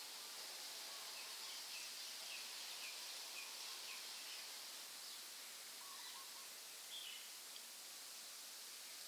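Faint rainforest ambience: a steady high hiss, with a bird giving a quick run of about five short repeated chirps in the first few seconds and a couple of other brief calls later on.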